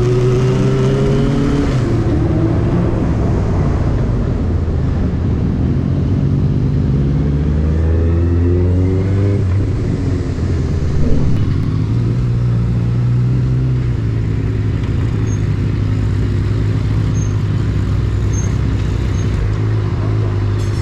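Benelli TNT600i's inline-four engine running under way, its pitch climbing as it revs up near the start and again about eight seconds in, then dropping back and running steadily at lower revs. A brief sharp knock sounds about eleven seconds in.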